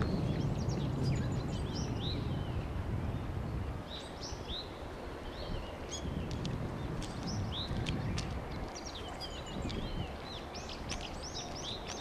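Many small birds chirping and twittering, short quick calls overlapping one another, over a steady low background rumble that is louder in the first few seconds.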